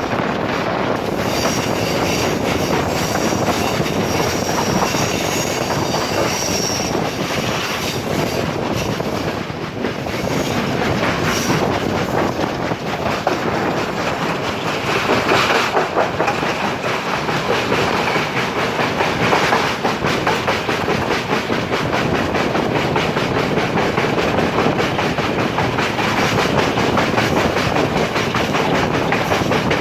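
Train running along the track, wheels clattering over the rail joints with a steady noise of travel and a few brief high-pitched wheel squeals.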